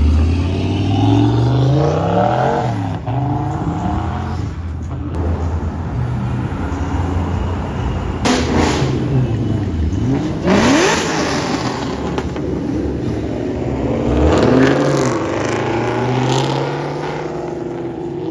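Ford Mustang engines revving as several cars accelerate away and pass one after another. The pitch climbs and drops through the gears, with a sharp rising rev about ten seconds in.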